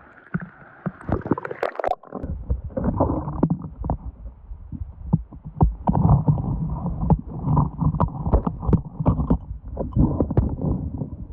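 Water splashing, then from about two seconds in the sound turns muffled as the microphone goes underwater. Rocks and gravel clack and knock as hands dig through creek-bed sediment, over a low gurgling rumble of water.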